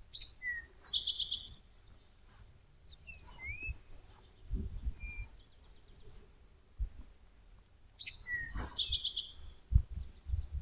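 A songbird singing a short phrase, a whistle and then a quick high trill, at the start and again about eight seconds later, with a few other chirps between. Low thuds and rustling run underneath.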